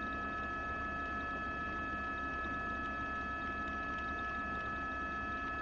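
A steady electrical hum with several constant high tones held at an even level.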